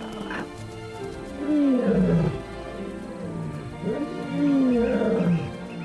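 Lionesses roaring: two long roars a few seconds apart, each falling in pitch, over background music. These are contact roars, calling to the pride's adult males out on patrol.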